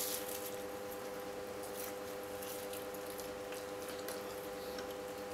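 Close-up chewing of pastry with wet mouth clicks, starting with a bite that gives the loudest click. A steady electric fan hum runs underneath.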